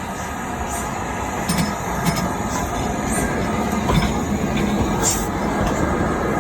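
LMS Black 5 4-6-0 steam locomotive moving slowly, with a steady hiss of steam and short, sharp high-pitched sounds every second or two.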